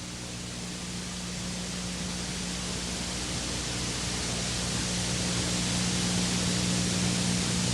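Steady rushing hiss with a low, even hum beneath it, slowly growing louder.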